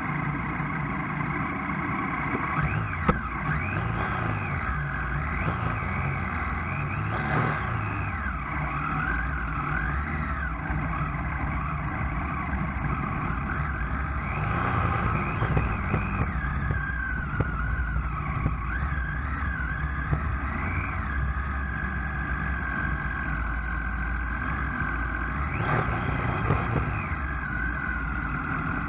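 Motor vehicle driving along with its engine running steadily, a whine rising and falling as the speed changes, and a few sharp knocks.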